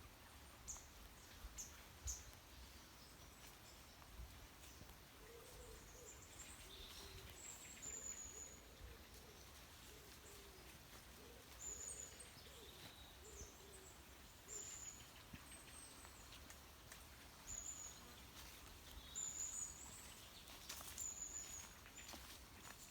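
Faint birdsong outdoors: a run of low cooing notes about five seconds in and again around ten to thirteen seconds, with short thin high-pitched calls repeating every few seconds.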